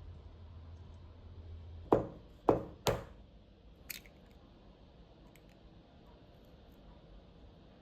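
Three sharp knocks about half a second apart, each with a short ring, then a lighter click a second later.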